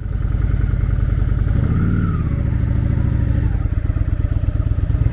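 Honda Shadow VLX 600 V-twin motorcycle engine running loudly, with a brief rev about one and a half seconds in, then settling back to a steady run.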